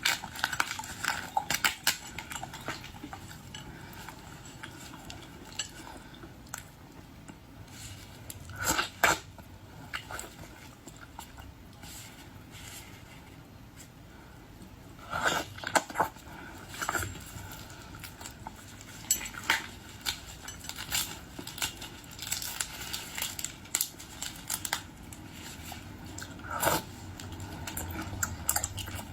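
Eating boiled shrimp and lobster: chewing and crunching of shells, with scattered sharp clicks of cutlery and dishes, the loudest about a second in, near 9 and 16 seconds, and near the end.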